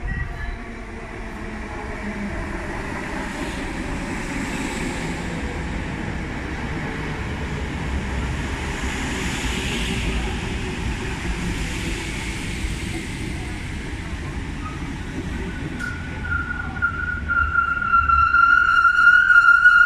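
A Class 315 electric multiple unit pulls into the platform and slows to a stop: a steady rumble of wheels on rails with a faint whine falling in pitch as it brakes. Background music with a sustained violin-like tone fades in near the end.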